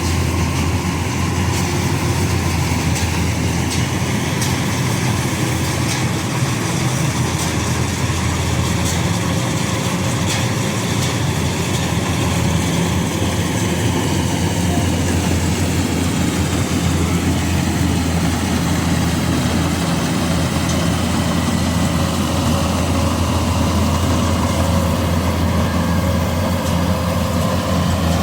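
Combine harvester running steadily, a constant deep engine hum.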